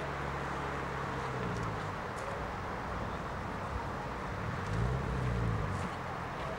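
A car engine running at low speed, with the engine note rising and falling once about five seconds in.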